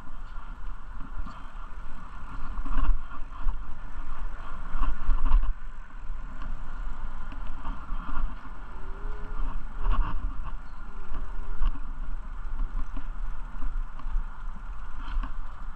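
Riding noise from a moving bicycle: a continuous rumble with rattles and light clicks, and wind buffeting the microphone.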